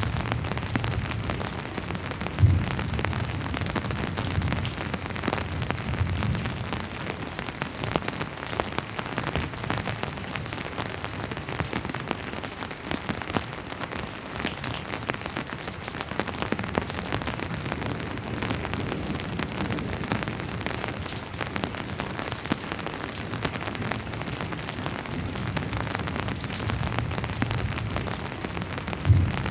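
Steady rain falling on a hard surface, a dense patter of drops. Low rumbling swells and fades a few times, and two short low thumps stand out, about two and a half seconds in and again near the end.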